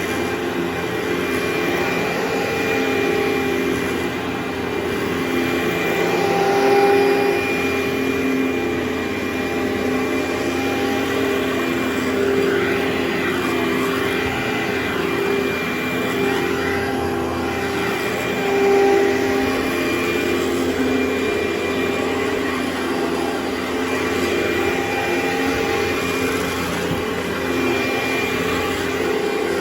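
Carpet-cleaning machine running steadily, with a vacuum-like suction rush over a constant hum.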